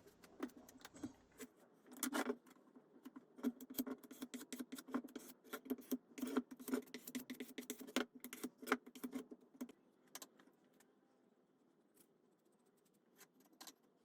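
A run of light, irregular clicks and rattles for about ten seconds, then only a few scattered ticks.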